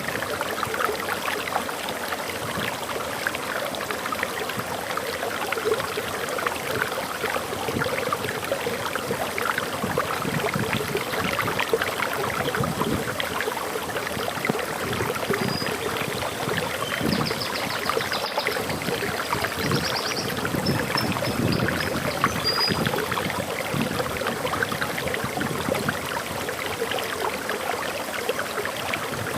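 Waterfall flowing in a steady splashing, gurgling rush of water. About halfway through, a bird calls with a series of short high chirps.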